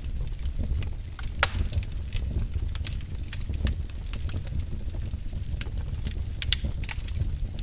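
Wood fire burning in a fireplace, crackling and popping irregularly over a low steady rumble of the flames, with one sharper pop about a second and a half in.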